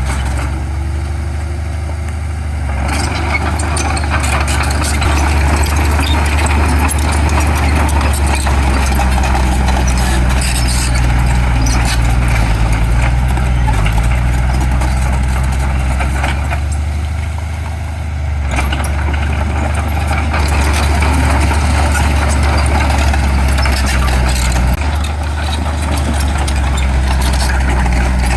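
Heavy diesel construction machinery running steadily, with a deep engine drone under a noisier clatter that eases off briefly a few times.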